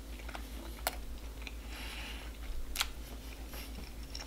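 A person chewing a mouthful of hot dog with the mouth closed: quiet mouth sounds with a few sharp clicks, two of them standing out, over a steady low hum.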